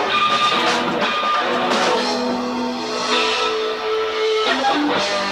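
Live rock band playing, with electric guitar to the fore over bass, ringing out sustained notes through the middle.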